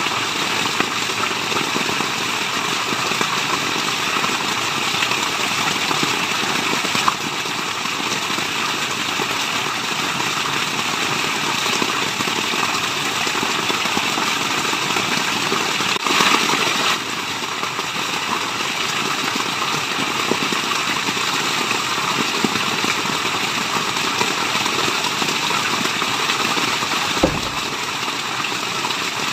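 Waterfall rushing, a steady even wash of falling water, with a brief swell about halfway through and a couple of faint clicks.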